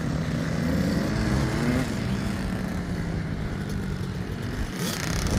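Small two-stroke motocross bike engines running, the pitch rising and falling as the throttle is worked.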